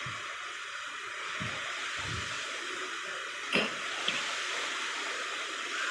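Heavy rain falling, a steady hiss, with a sharp knock about halfway through and a fainter one just after.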